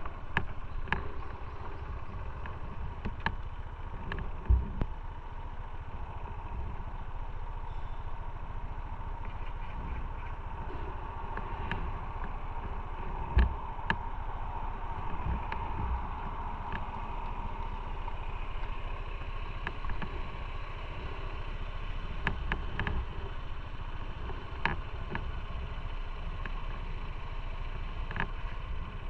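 Motorcycle running at low revs under a steady low rumble, with scattered short sharp knocks.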